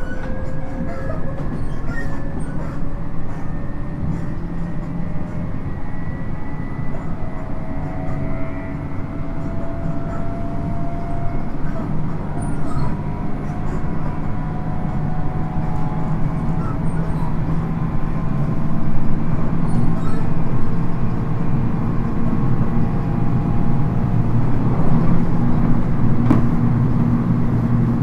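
Interior running sound of a 719 series electric multiple unit on the move: a steady rumble of wheels on rough track, with a faint motor whine that rises in pitch and a low hum that grows louder in the second half.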